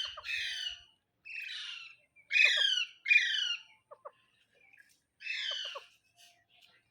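Green parrot giving about five harsh squawking calls in separate bursts, each sliding downward in pitch, the two loudest close together in the middle.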